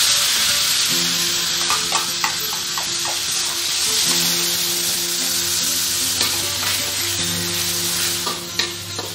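Chopped aromatics sizzling in hot oil in a wok as they are stirred with a metal spatula, which clicks and scrapes against the wok a few times, in a cluster about two seconds in and again near the end.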